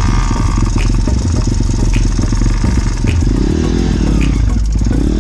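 Motorbike engine running, its revs rising and falling about three seconds in, under heavy low wind rumble on the microphone.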